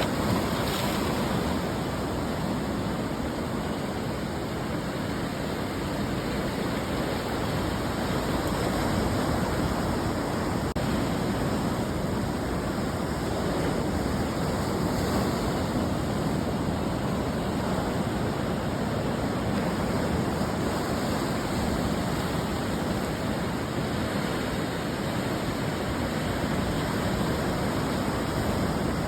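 Ocean surf breaking and washing up on the shore: a steady rush of water noise that swells and eases every several seconds as waves come in.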